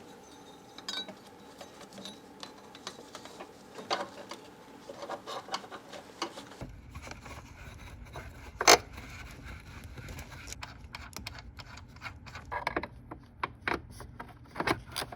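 Small metal clicks and scrapes as the battery hold-down strap and its nut are worked back onto the post in the engine bay. There is a sharper clack about nine seconds in and a run of quick clicks near the end, as the fastener is handled and snugged down.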